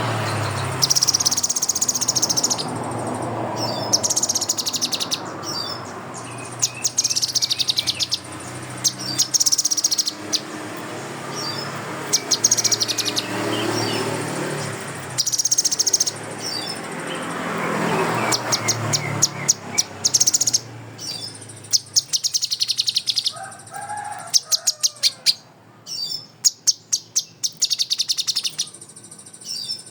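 Kinoi songbird singing in repeated bursts of fast, high trills and chattering notes, its song filled with imitated phrases of the cililin and kapas tembak. A low rumble of background noise runs under the song and fades away about two-thirds of the way through.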